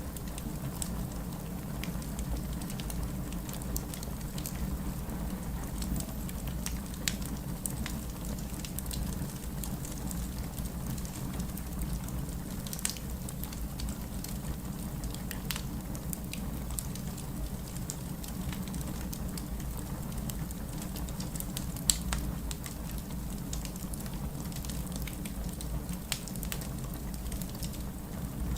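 Wood fire crackling with sharp pops, the loudest about 22 seconds in, over the steady hiss and low rumble of rain.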